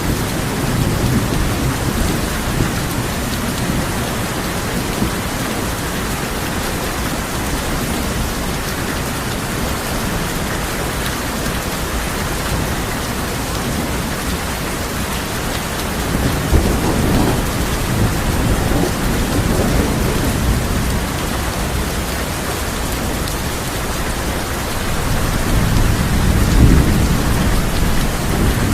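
Steady heavy rain on a tin roof with rolling thunder, the low rumble swelling about halfway through and again building near the end.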